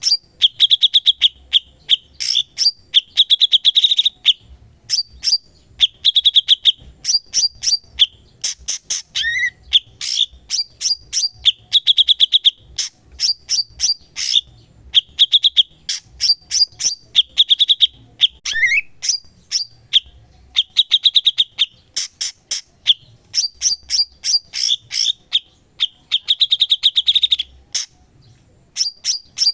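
A cucak cungkok singing continuously in full song. Short phrases of rapid, sharp high chirps alternate with buzzy trills a second or two long, separated by brief pauses, with an occasional lower sweeping note.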